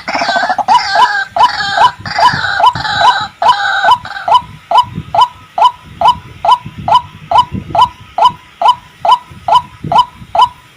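White-breasted waterhen calling: a fast, even series of short repeated notes, about three a second. For the first four seconds a busier jumble of overlapping calls runs over it, then drops away and leaves the single repeated note.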